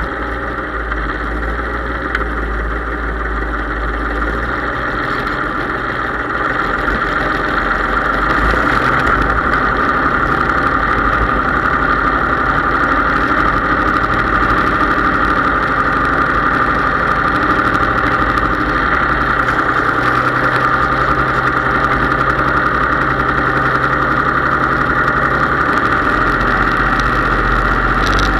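Case IH 3220 tractor's diesel engine running steadily, getting louder about six to eight seconds in and holding there.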